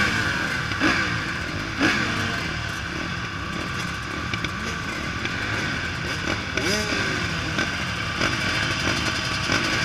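Motocross bikes racing on a dirt track, several engines revving at once with their pitch rising and falling as riders open and close the throttle through the corners and jumps.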